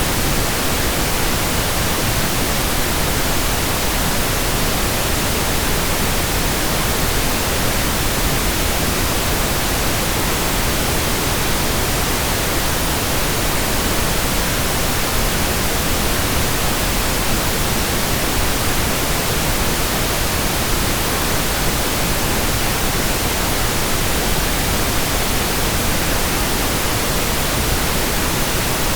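Steady synthetic pink noise: an even, unchanging hiss spread across the whole range, fuller in the lows than white noise.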